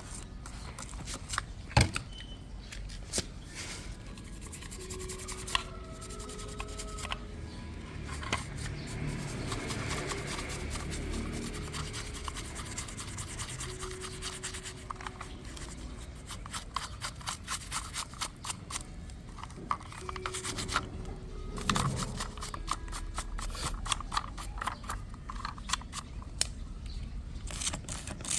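Hands and small tools working on a toy police car during restoration: scraping and rubbing with many quick clicks and ticks, and a longer stretch of rubbing in the middle.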